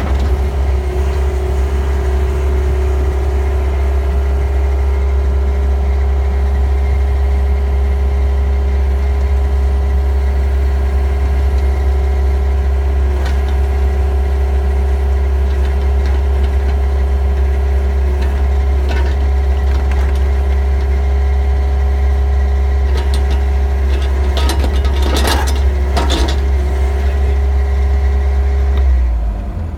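John Deere 60G compact excavator's diesel engine running steadily under load, with a steady whine over the low drone and a few scattered knocks and clanks, most of them in the last third. Near the end the whine stops and the engine note drops.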